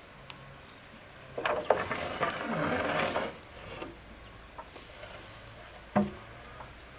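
Clattering knocks of wooden pieces being handled, with a stretch of scraping and rustling, then one sharp knock near the end.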